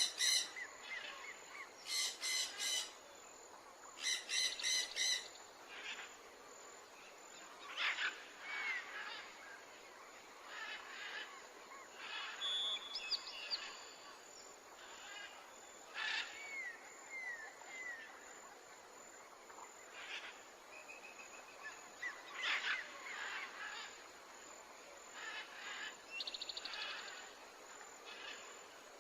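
Birds chirping in a natural-ambience recording: short, scattered calls and brief down-sliding whistles, with a few loud clusters of rapid chirps near the start.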